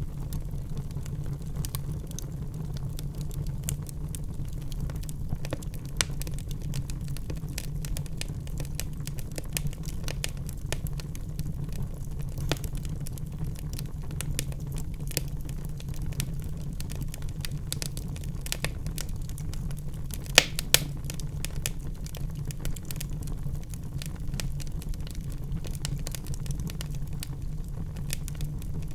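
Wood fire in a fireplace crackling, with irregular small pops over a steady low rumble. Two louder pops come close together about two-thirds of the way in.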